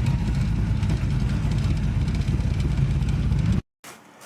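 A car engine and exhaust running steadily with a low rumble while the car is driven. The sound cuts off abruptly about three and a half seconds in.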